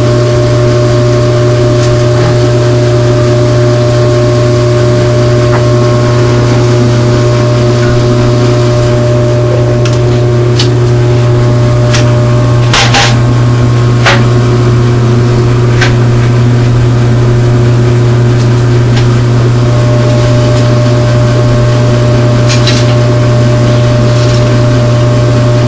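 Forced-air heater burning diesel or kerosene, running with a loud steady hum and blower rush. A few sharp metallic clinks sound over it about ten to fourteen seconds in and again near the end.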